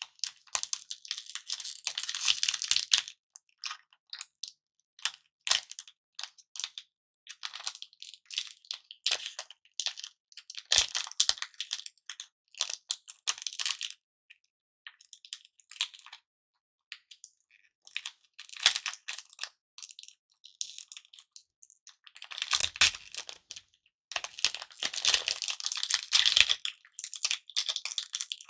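Irregular bursts of crinkling and crunching as lollipops and their wrappers are handled and crushed, with short pauses between the bursts.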